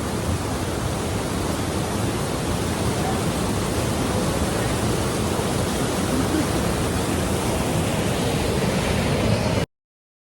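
Bracklinn Falls rushing: a steady, loud noise of falling water that cuts off suddenly near the end.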